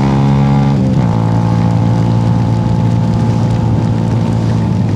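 Motorcycle engine running while riding, its note dropping about a second in and then holding steady.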